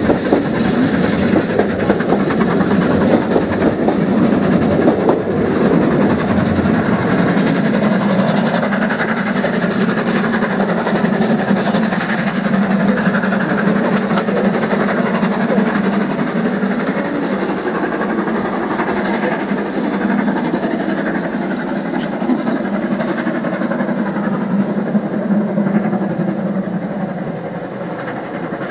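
Passenger coaches of a steam-hauled train running past and away, wheels clattering over the rail joints. The sound slowly fades near the end as the train draws off.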